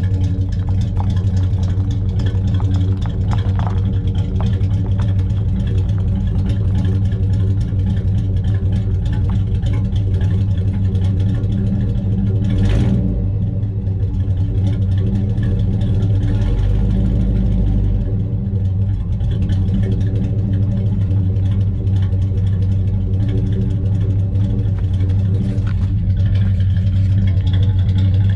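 Chevelle's engine idling steadily through a new 2.5-inch dual exhaust with single-chamber mufflers, a low, even rumble with no revving. A brief click sounds about halfway through.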